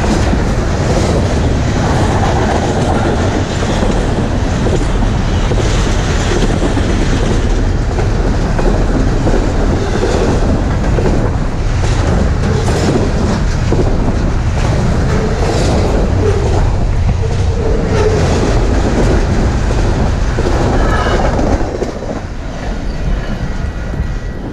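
Freight train cars rolling past close by, with loud steady rumble and the clickety-clack of wheels over rail joints. The sound drops off about 21 seconds in.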